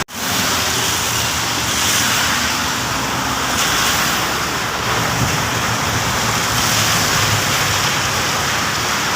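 Steady hiss of heavy rain, with the low rumble of a vehicle on the wet road swelling through the middle and easing off toward the end.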